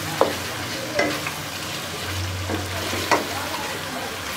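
Chicken and spiced tomato masala sizzling in oil in an aluminium pot while being fried, as a wooden spatula stirs through it. A few sharp scrapes of the spatula against the pot stand out over a steady sizzle.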